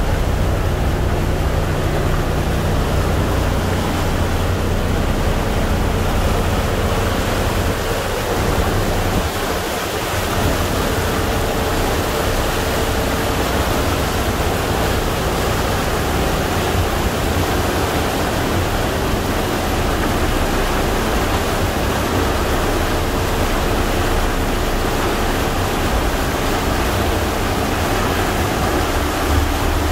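Passenger ferry under way: a steady engine hum under a continuous rush of water and wind noise.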